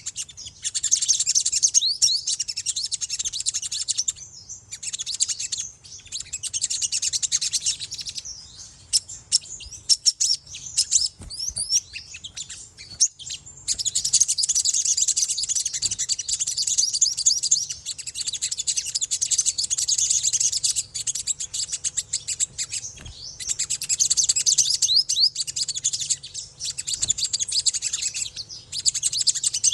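Little spiderhunter (sogok ontong) ngriwik: a fast, continuous high-pitched twittering chatter in long runs, broken by a few short pauses. This is the bird's soft early warble rather than full song.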